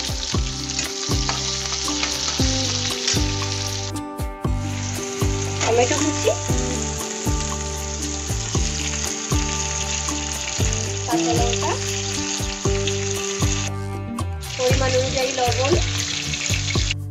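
Sliced onions and cumin seeds sizzling as they fry in hot oil in a pan, with a metal spatula stirring and scraping now and then. The sizzle breaks off briefly twice, about four seconds in and near the end.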